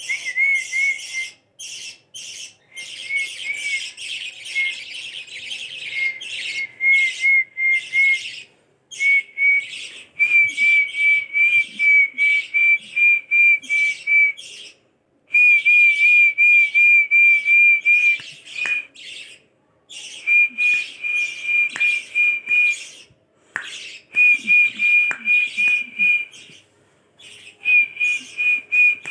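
Parrots calling in long strings of quick, high chirps, several a second, broken off abruptly now and then by short silences.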